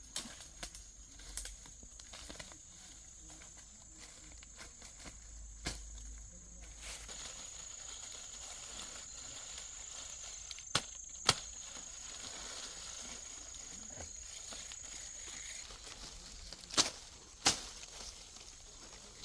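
An insect, a cricket or cicada, keeps up a thin, steady, high-pitched drone that stops near the end, over rural outdoor ambience. Several sharp clicks or snaps break in: two close together about eleven seconds in, and two more near the end.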